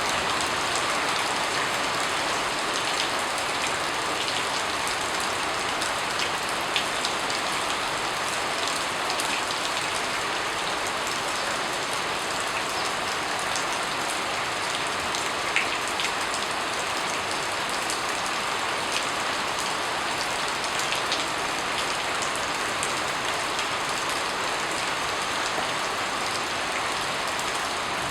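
Steady rain falling, an even hiss of drops with scattered single drop ticks standing out now and then.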